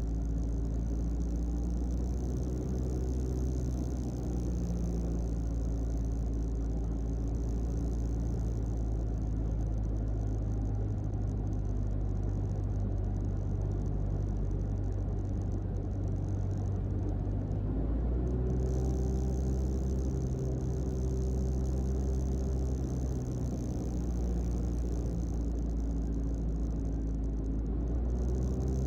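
Mooney M20J's four-cylinder Lycoming engine running at low power after landing, heard in the cockpit as a steady low drone. Its note shifts about two-thirds of the way through.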